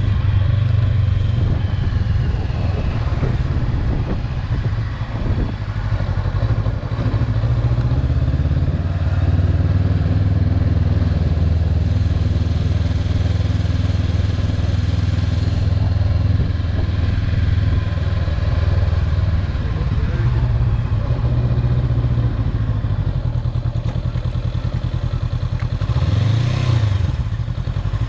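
A vehicle's engine running steadily at a low, even drone, with its pitch briefly dipping and rising again near the end.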